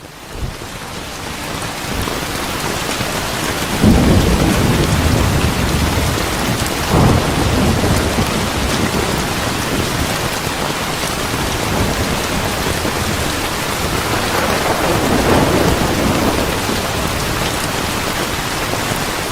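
Steady rain hissing, with rolling thunder over it: a sharp low rumble about four seconds in, another near seven seconds, and a longer rumble around fourteen to sixteen seconds. The rain fades up over the first couple of seconds.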